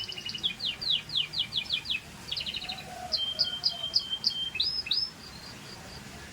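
Scotch Fancy canary singing: fast trilled runs of repeated high notes, then a held note with short chirps over it, ending in two rising whistles. The song stops about five seconds in.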